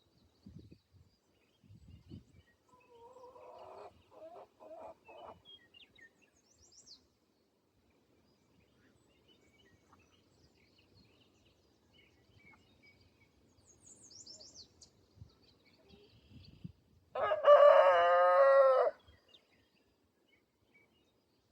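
A rooster crows once, loud, for about two seconds near the end. Earlier a chicken gives a short run of clucking calls, with faint high chirps of small birds and a few soft low thuds between.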